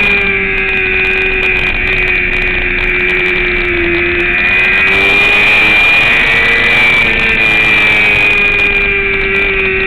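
Motorcycle engine running at high revs on track, heard on board with wind noise, its pitch dipping about four seconds in and rising again shortly after.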